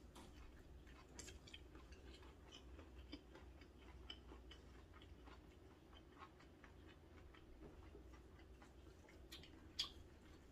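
Faint, close-miked chewing of a bite of seafood scallion pancake (haemul pajeon), a scatter of small wet mouth clicks, with one sharper click near the end.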